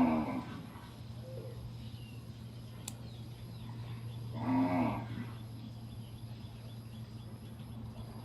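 A cow mooing twice, two short calls about four and a half seconds apart, over a steady low hum.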